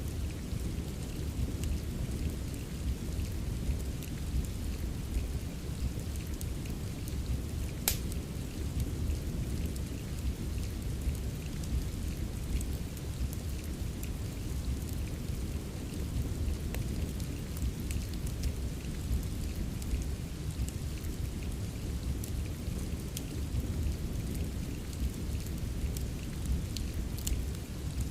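Steady rain over a constant low rumble, with the scattered crackles and pops of a wood fire; one sharper pop about eight seconds in.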